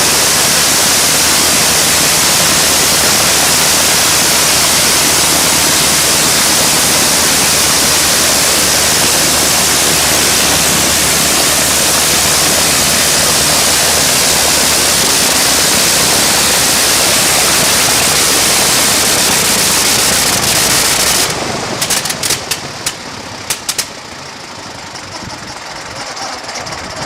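A 1917 Clerget 9B nine-cylinder rotary aero engine running loud and steady. About 21 seconds in it cuts out, giving a few last irregular bangs before it runs down.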